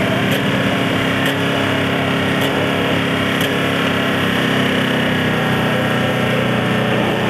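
Engine of a wrecked demolition derby car running steadily and loudly.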